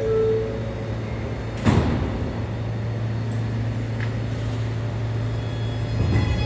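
R211A subway car running with a steady low hum and a single sharp clunk about a second and a half in. Near the end a set of steady tones starts to come in.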